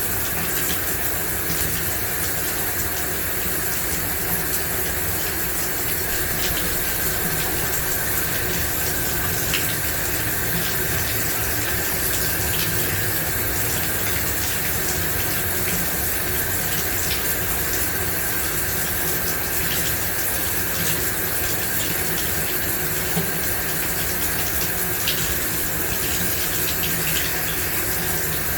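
A running shower: a steady spray of water with small scattered splashes and drips.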